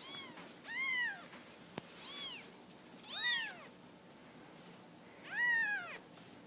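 Young kittens mewing: five short, high-pitched mews spread across a few seconds, each rising then falling in pitch.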